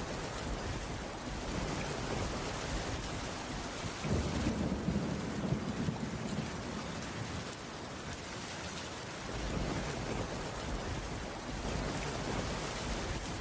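Steady rainfall with low thunder rumbles, which swell about four seconds in and again near the ten-second mark.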